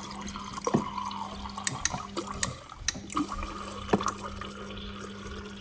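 Samsung fridge door water dispenser running into a cup, its valve humming steadily under the pouring water, with scattered splashes and clicks. The water is being run through a freshly fitted filter to flush it.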